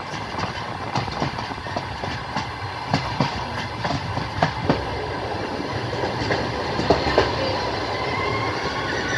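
Passenger train wheels running over the rails, heard from on board: a steady rumble broken by irregular clicks and knocks at the rail joints, two sharp knocks about seven seconds in. Near the end a faint high wheel squeal begins to come in.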